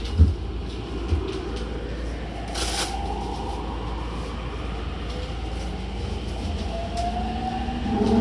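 Toei 10-300 series train's Mitsubishi IGBT VVVF inverter and traction motors pulling away. Two low knocks come in the first second and a brief hiss about two and a half seconds in. Then rising whine tones climb in pitch and grow louder near the end as the train accelerates.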